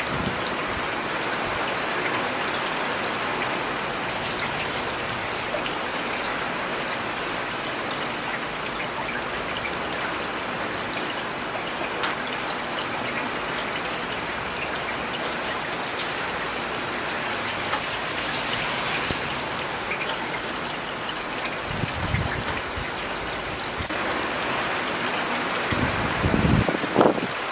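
Steady rain falling on hard surfaces, an even hiss with scattered sharper drops. A low rumble swells briefly about two-thirds of the way in and again near the end.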